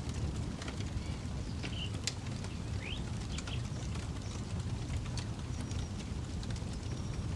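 Campfire burning, the wood giving off scattered sharp crackles and pops over a steady low rumble, with a few short bird chirps in the background.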